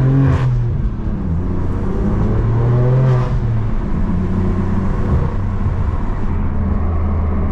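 BMW M4 F82's twin-turbo inline-six running through an AWE SwitchPath valved exhaust while driving, its note rising briefly near the start and again about three seconds in, otherwise a steady drone.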